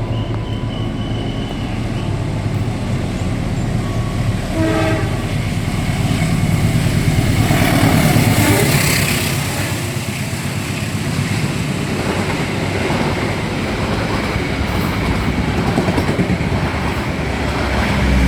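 Train running along the rails, louder and nearer about eight seconds in, then easing off, with a short horn blast about five seconds in.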